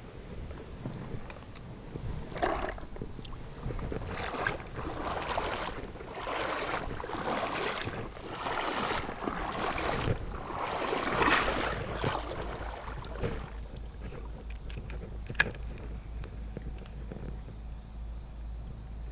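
Repeated swishes of moving water on a river, about one every second or so, that die down after about thirteen seconds, with a single sharp click a couple of seconds later.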